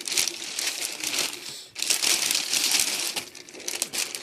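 Packaging crinkling and rustling as it is unwrapped by hand, in two bouts with a short break between them.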